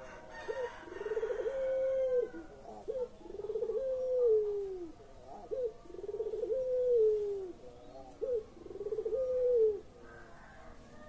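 Puter pelung dove cooing: a short note and then a long drawn-out coo that holds its pitch and falls away at the end, four times at roughly two-second intervals.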